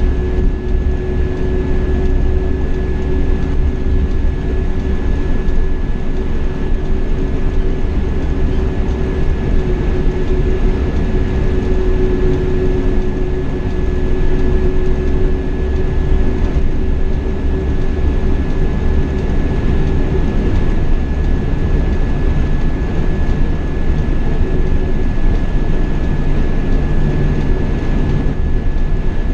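Scania K420 double-decker coach cruising steadily on the highway, heard from the cab: a continuous low engine and tyre rumble with a steady hum over it.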